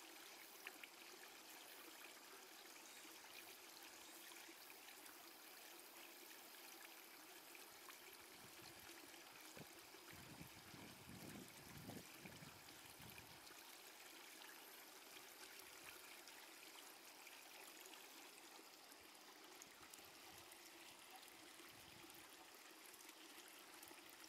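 Faint, steady trickle of stream water, with a low rumble for a few seconds about ten seconds in.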